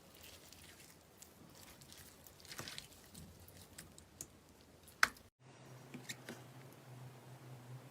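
Slime being squeezed and pressed: soft squishing with small crackling pops, and one sharp pop about five seconds in. After a brief cutout, a faint steady hum runs under a few more crackles.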